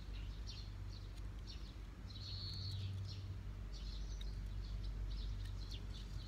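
Birds calling: a run of short, high chirps, with three longer level notes among them, over a steady low hum.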